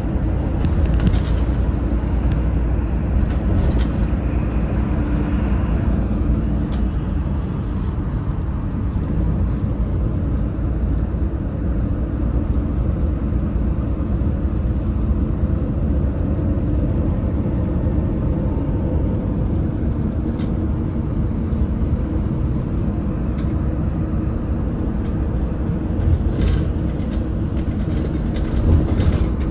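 Daewoo FX116 express bus engine running steadily under way, a constant low rumble with road noise and engine tones that drift slightly in pitch. A few short rattles or clicks come near the end.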